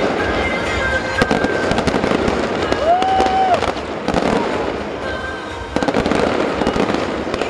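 Fireworks bursting again and again in quick succession, with music playing underneath.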